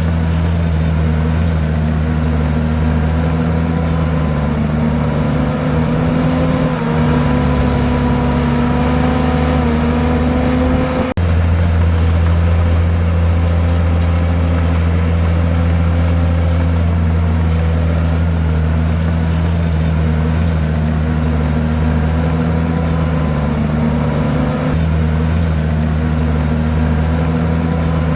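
Komatsu bulldozer's diesel engine running steadily under load, its pitch dipping and rising a little as it works, with an abrupt break about eleven seconds in.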